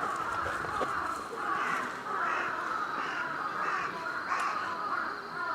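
A bird's harsh calls, repeated about one to two times a second.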